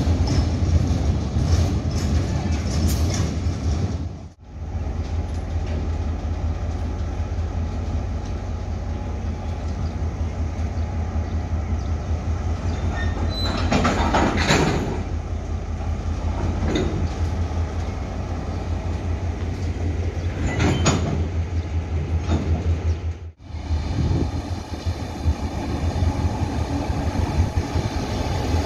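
Freight train rolling past on the station tracks: empty freight wagons clacking over the rail joints over a steady low diesel locomotive drone, with two louder grinding bursts around the middle. Near the end a diesel-electric locomotive is heard approaching.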